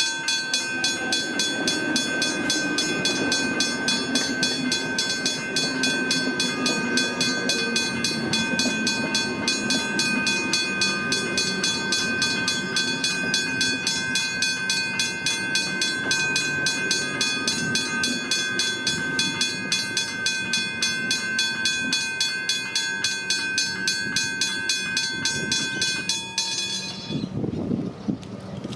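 Westinghouse hybrid level crossing bell ringing with rapid, even strokes while a train passes, rumbling underneath; the bell stops about 26 seconds in.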